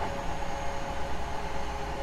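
Hankyu 9000 series electric train running at steady speed, heard from inside the car: a steady rumble of wheels on rail with a steady whine over it.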